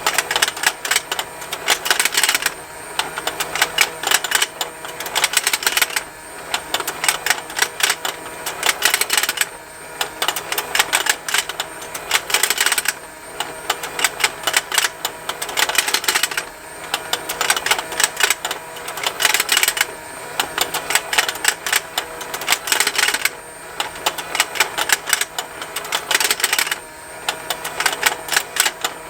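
Plastic fishing-lake toy running: its motor-driven rotating pond makes a continuous rapid ticking, with snapping plastic, swelling into louder bursts of clicks about every three and a half seconds over a faint steady motor hum.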